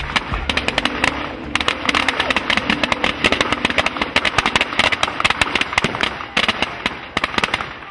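Fireworks crackling in a dense barrage of sharp cracks and bangs, many a second, thinning out and fading near the end.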